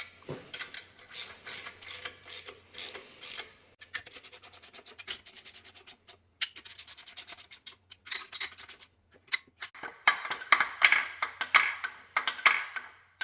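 Hand ratchet wrench clicking in repeated strokes as fasteners are turned down on an engine case, with a fast even run of clicks in the middle and busier clicking near the end.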